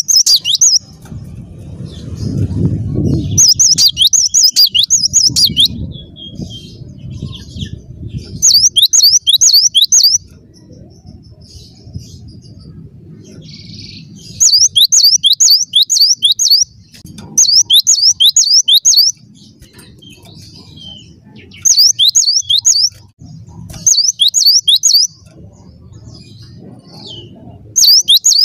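A cinereous tit (gelatik batu) singing loud phrases of quick, repeated, sharply falling whistled notes, a few notes a second. The phrases last one to two seconds and recur every few seconds, with a low rumble in the pauses between them.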